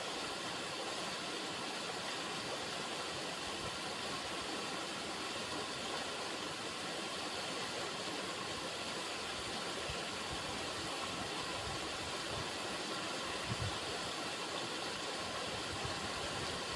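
River water running over rocks: a steady, even rush with a few faint low bumps near the end.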